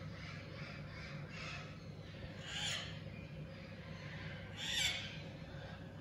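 Birds giving harsh calls: two loud ones about two and a half and five seconds in, with fainter calls in the first two seconds.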